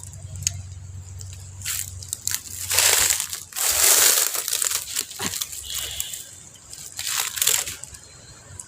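Close-up crunching and chewing of crisp, juicy macopa (wax apple) in several bursts, the loudest about three to four and a half seconds in.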